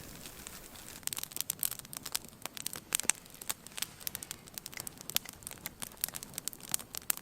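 Plastic food packaging being crinkled and torn open, a dense run of irregular crackles starting about a second in.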